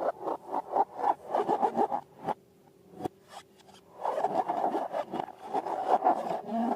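Balloons and slime being rubbed and squeezed by hand: rapid irregular rubbing strokes, a short pause broken by a couple of sharp clicks, then a longer run of rubbing.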